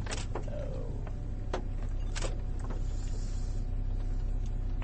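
Steady low hum of an idling vehicle, with a few light clicks and knocks in the first few seconds.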